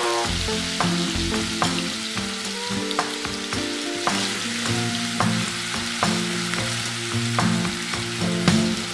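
Food sizzling as it fries in a pan, with sharp clicks of a utensil stirring it every second or so.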